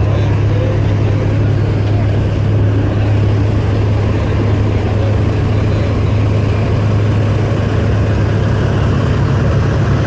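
Heavy diesel truck engine running at a steady idle, a constant low hum with no revving.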